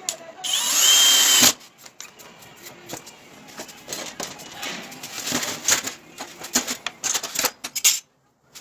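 A power tool runs for about a second with a whine, then stops. It is followed by a string of light clicks and knocks from handling tools and parts. The sound cuts out abruptly near the end.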